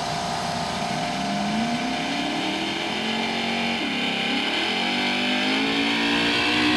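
Chevrolet Malibu drag car doing a burnout: the engine revs up from about a second in and is held high while the rear tyres spin. The revs dip briefly near the middle, then climb again and hold.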